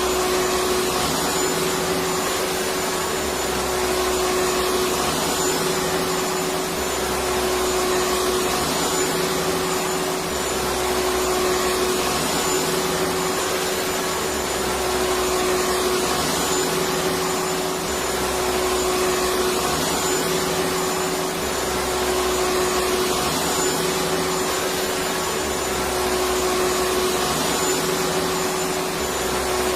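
Electric vacuum cleaner running steadily: a continuous whooshing whir with a steady hum, swelling slightly every few seconds.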